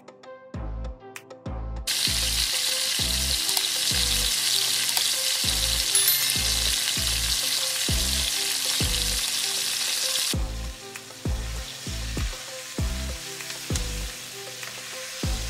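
Coated chicken pieces deep-frying in hot oil in a pan. A loud sizzle starts suddenly about two seconds in and drops to a quieter sizzle about ten seconds in, with background music and a steady beat underneath.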